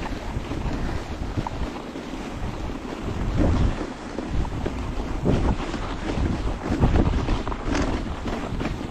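Wind buffeting the microphone over the rushing noise of a moving dog sled on a snow trail, with irregular scrapes and knocks a few times.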